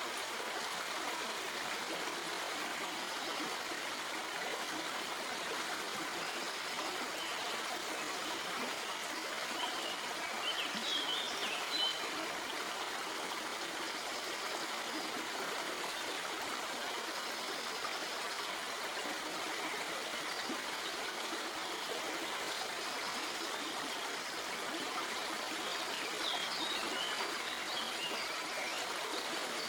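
Small stream flowing and trickling over rocks, a steady rushing babble of water.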